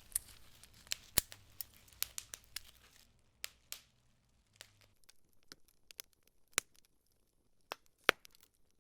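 Fire crackling: a dense run of small pops and snaps over a low rumble for about three seconds, then sparser crackles with a few sharp, louder pops.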